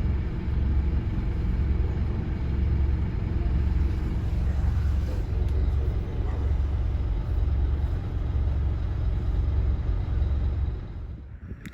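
Large diesel engine idling: a steady low rumble with a slow throb that cuts off abruptly near the end.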